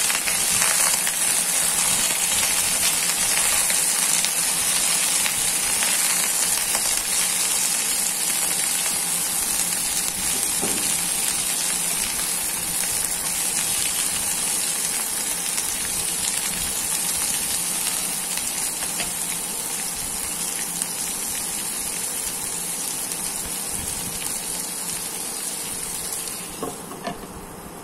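Pointed gourd (potol) pieces sizzling steadily as they fry in hot oil in a wok, turned now and then with a wooden spatula. The sizzle eases off near the end.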